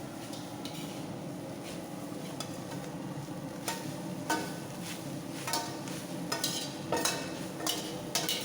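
A ladle scraping and stirring grated coconut as it roasts in hot oil in a large pan, over a steady low sizzle. Irregular scrapes start about halfway through and come more often toward the end.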